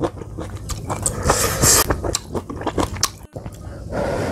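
A person chewing and biting a mouthful of kimchi stew with seonji (congealed ox-blood curd), close to the microphone, with many short mouth clicks and a brief hiss about one and a half seconds in.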